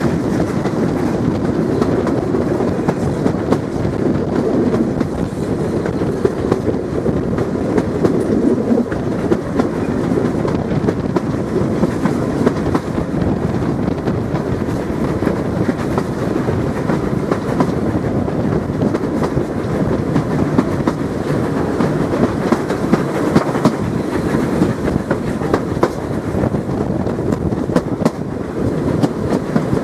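Passenger train running along the line: a steady rumble of wheels on track, with rapid clicks as the wheels pass over rail joints.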